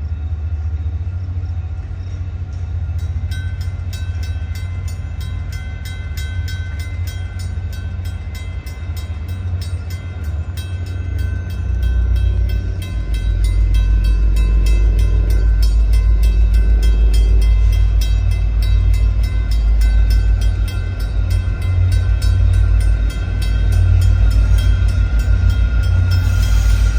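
VIA Rail passenger train running past, a deep rumble that grows much heavier about twelve seconds in. Steady high ringing tones and rapid even ticking run over it.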